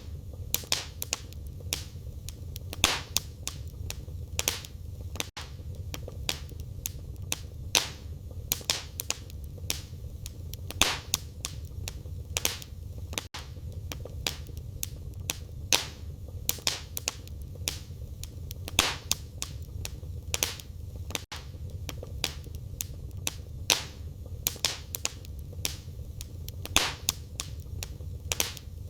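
Wood fire burning in a fireplace: irregular sharp crackles and pops, some louder than others, over a steady low rumble of the flames.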